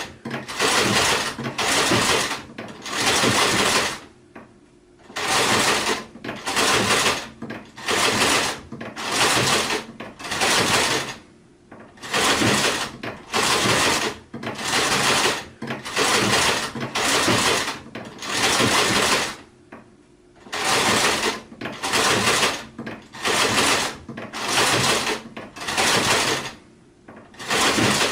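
Sewing machine stitching in short runs of under a second, stopping and starting about once a second, with a longer pause of about a second every eight seconds or so.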